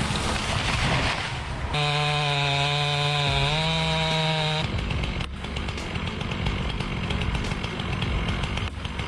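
Chainsaw running at high revs. Its steady engine note rises slightly about halfway through the run, then gives way a little later to a rougher, noisier sound.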